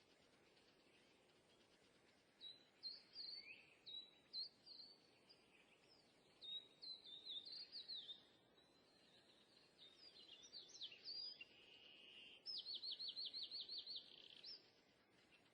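Faint birdsong: a small bird's series of short high chirps and quick sweeping notes, then a fast trill of about ten repeated notes near the end, over faint background hiss.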